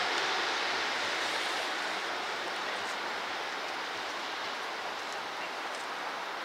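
Class 150 Sprinter diesel multiple unit moving away along curving track, its running noise an even hiss that fades gradually.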